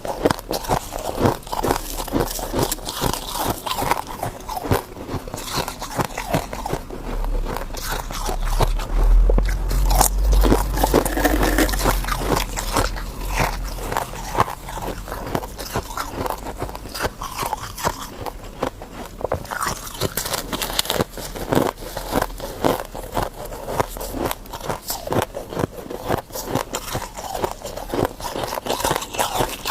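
A person biting and chewing ice: a fast, continuous run of crunches and cracks, with a low rumble under it for several seconds about a third of the way through.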